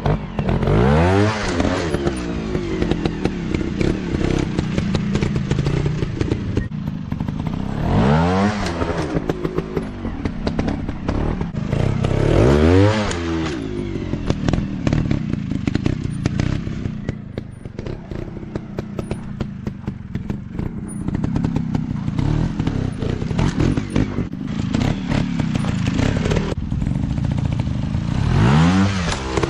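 Dirt bike engines running at low revs with a dense crackling patter, broken four times by a sharp rev whose pitch rises and then falls, near the start, about eight and thirteen seconds in, and near the end.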